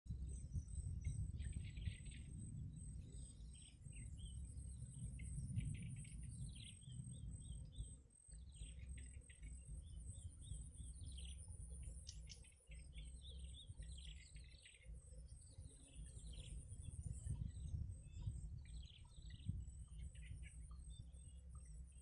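Birds chirping: short, high chirps in quick runs, over a low steady rumble.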